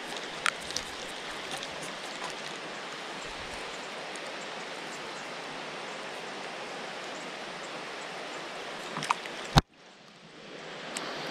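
Steady hiss of rain falling on the lake surface around a kayak, with a few faint clicks. About nine and a half seconds in there is a sharp loud knock, after which the sound cuts out and fades back in over a second or two.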